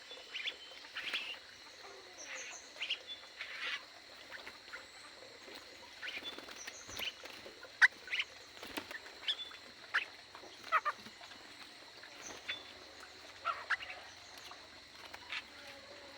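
Aviary birds calling: many short chirps and calls, scattered and overlapping irregularly, over a faint steady high tone.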